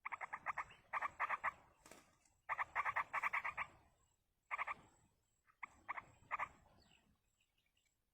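Yellow-vented bulbul calls: about five runs of fast chattering notes, each run a quick string of pulses, the later runs shorter and fainter.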